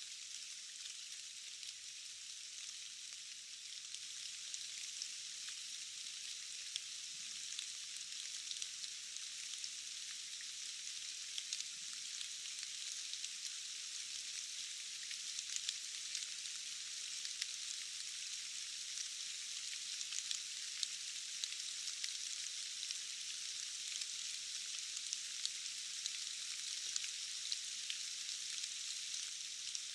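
Steady rain: an even high hiss dotted with many small drop ticks, with almost no low rumble.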